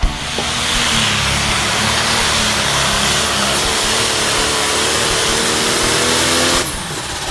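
Competition pulling vehicle's engine running at full throttle under load, loud and steady with its pitch rising slowly, cutting off suddenly near the end.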